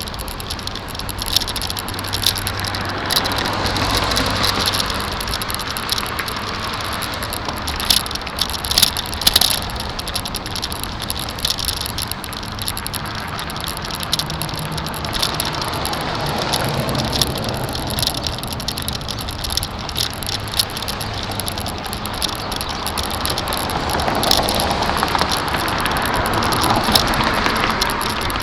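Bicycle rolling along a road, its bike-mounted camera picking up steady tyre and wind noise and the rattle and vibration of the bike over bumps in the pavement, with sharper rattles about eight and nine seconds in.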